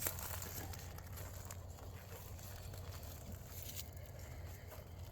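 Faint background noise with a steady low hum and a few soft ticks.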